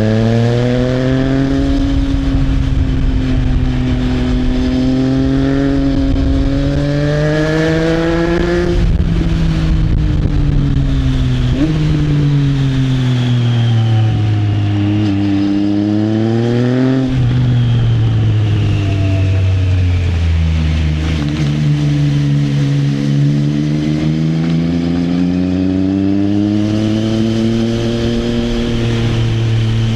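Triumph Trident 660 inline-three engine through an Arrow exhaust, under way: the note climbs as it pulls, falls back as the bike slows through the middle with two sharp rev blips on downshifts, then climbs steadily again near the end.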